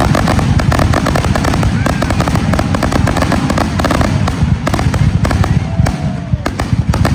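Fireworks display: a dense, unbroken barrage of rapid bangs and crackling over a continuous low rumble.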